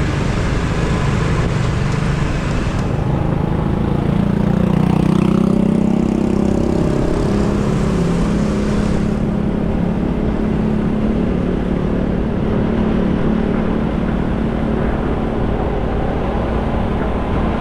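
Motorcycle riding at speed: engine running under steady wind and road noise. About four seconds in the engine note rises, then holds steady.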